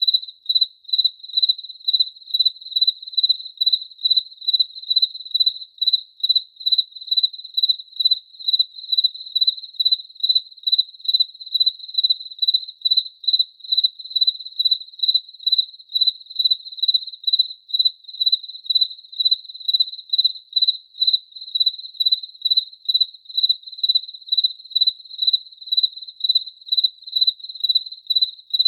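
A cricket chirping in a steady, even rhythm, about two to three chirps a second, on one high pitch.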